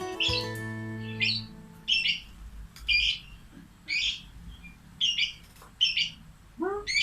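Lovebird giving short, high-pitched calls about once a second, eight in all. Background music plays under the first call and fades out after about a second and a half.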